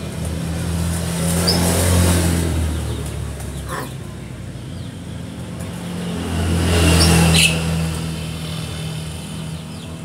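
Motor vehicle engine running, swelling louder twice as vehicles pass, around two seconds in and again around seven seconds in. A few short bird chirps are heard over it.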